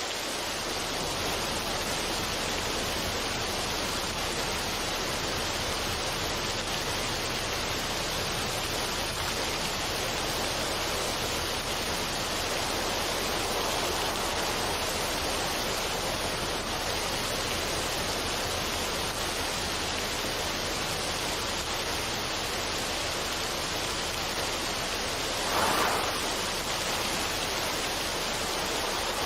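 Steady, even rushing noise with no music or tones, like a relaxation noise track of flowing water, with one brief louder swell near the end.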